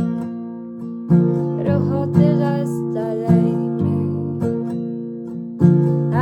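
Acoustic guitar music: chords struck about once a second, each left to ring and fade.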